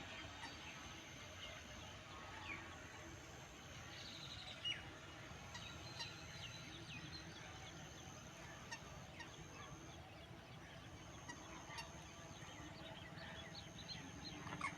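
Birds calling: many short, sharp calls scattered throughout, several falling in pitch, the loudest a little under five seconds in and near the end, over a faint steady high tone.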